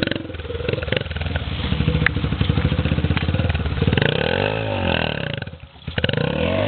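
Small single-cylinder four-stroke Yamaha TT-R dirt bike engine running through whoops, its revs rising and falling twice in the second half. It is being ridden in too high a gear.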